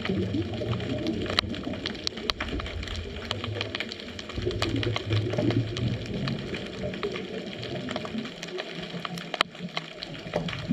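Underwater ambience picked up by a GoPro in its housing on a scuba dive: a low rumbling wash of water that swells and fades, with scattered sharp clicks and crackles throughout.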